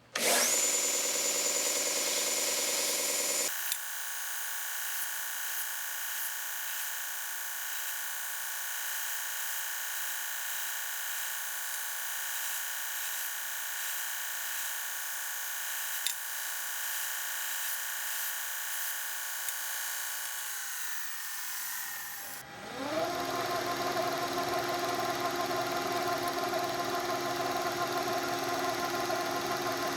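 A shop machine's electric motor running with a steady whine and hum. About twenty seconds in it winds down with falling pitch, then starts up again with a rising pitch and runs steady.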